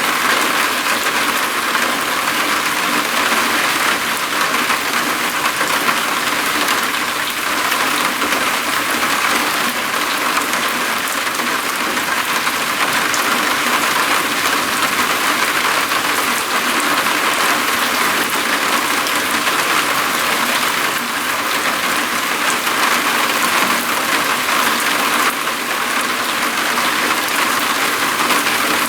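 Steady rain falling on a roof, a dense, even patter with no single drops standing out.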